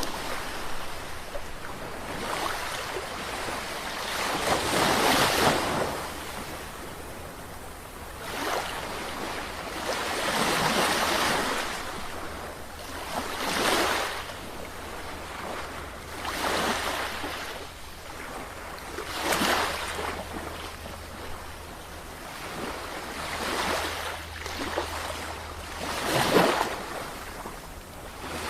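Sea waves breaking and washing on the shore, one surge after another every few seconds, over a steady low rumble.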